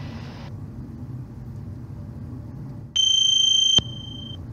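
Steady jet cockpit noise, then about three seconds in a single high electronic beep from the cockpit's warning system, lasting just under a second.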